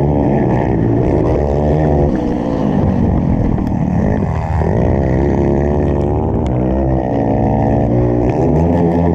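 Motocross dirt bike engines revving, their pitch rising and falling again and again, with a brief drop and climb about four and a half seconds in.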